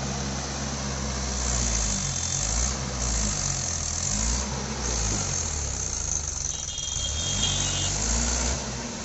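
Mahindra 475 DI tractor's diesel engine revving up and dropping back again and again, about five times, under heavy load as the stuck tractor and loaded trolley are worked free.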